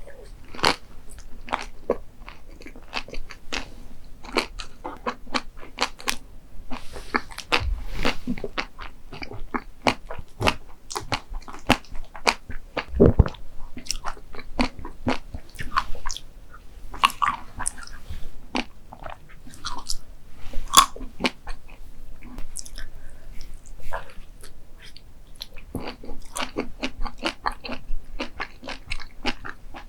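Close-miked eating of desserts: repeated crunchy bites and chewing, an irregular run of sharp crackles and clicks.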